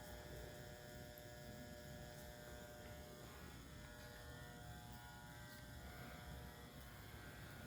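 Near silence: faint, steady electrical hum over a low rumble, room tone.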